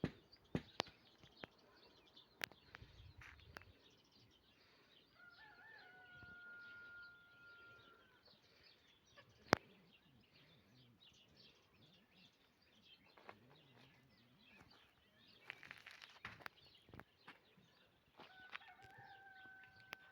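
A rooster crowing twice: once about five seconds in and again near the end, each crow ending in a long held note. Scattered sharp clicks are heard between the crows.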